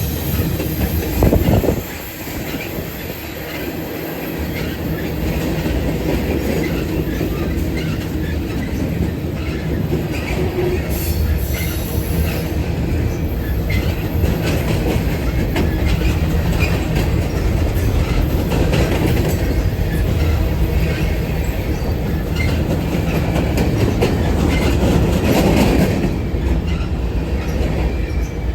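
A train rolling past, its steel wheels clattering on the rails with some high squealing, loudest a little over a second in.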